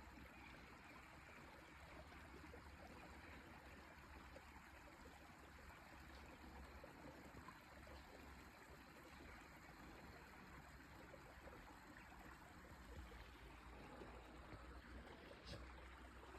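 Near silence: faint, steady outdoor rushing noise, with a single short click near the end.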